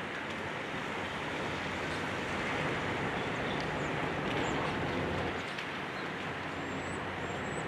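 Steady mechanical rumble of heavy machinery, with a few short high rising chirps near the end.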